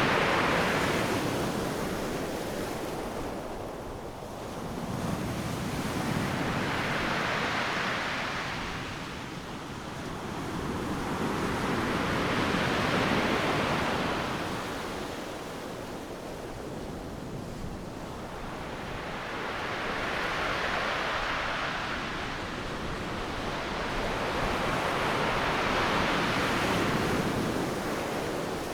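Ocean waves breaking on a beach: the rush of surf swells and fades about every six to seven seconds, about five surges in all.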